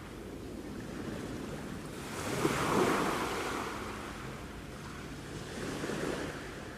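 Sea waves breaking and washing onto the shore, one larger wave swelling about two and a half seconds in and a smaller one near the end, with some wind noise.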